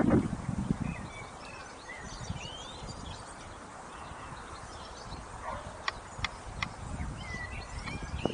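Outdoor background with small birds chirping on and off, low thuds near the start, and three sharp clicks about six seconds in.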